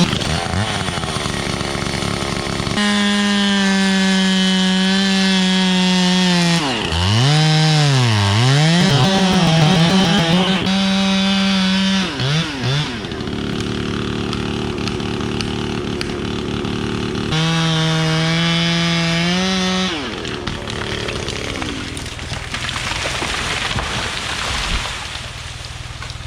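Chainsaw felling a pine tree. The saw runs at full throttle, and its pitch sags and recovers several times around the middle as the cut loads it. A little past halfway it drops back to idle, revs up again for a few seconds, then falls back to idle.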